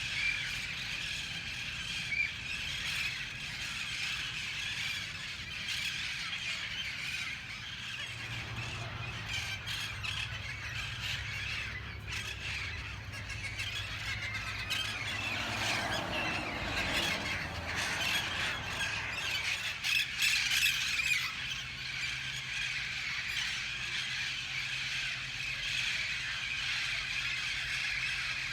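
Flock of parrots screeching and squawking continuously in a dense, shrill chorus. A low rumble swells and fades under the calls about halfway through.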